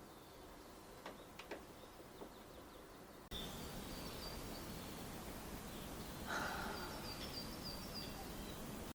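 Faint outdoor ambience that jumps suddenly to a louder steady hiss about three seconds in, with a bird chirping a quick run of short high notes near the end.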